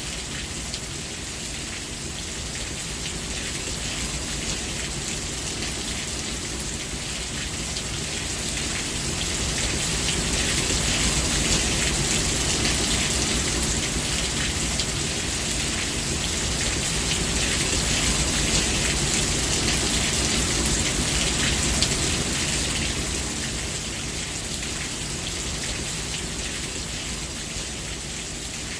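Steady heavy rain falling, a dense hiss of drops with a low rumble beneath. It swells louder through the middle and then eases back.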